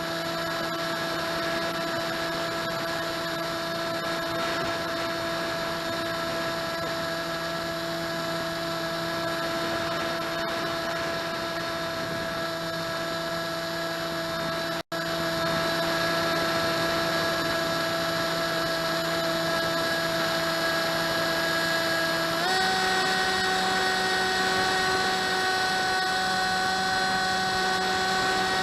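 HobbyKing Drifter's electric motor and propeller running at a steady whine. About 22 seconds in the pitch steps up and the sound gets a little louder as the throttle is advanced. The sound cuts out for an instant near the middle.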